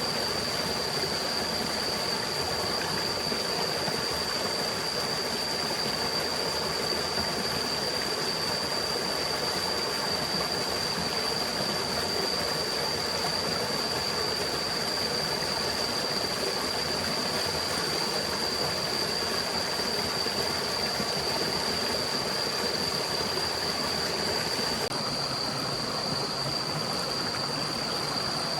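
Steady rushing of a forest stream, with a thin steady high-pitched tone running over it.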